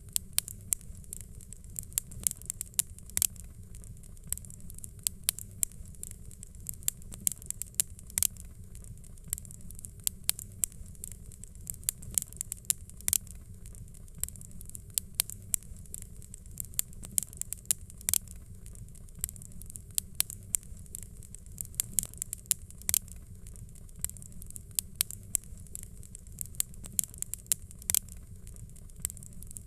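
Fireplace fire crackling and popping: irregular sharp snaps, several a second, over a steady low rumble of flame.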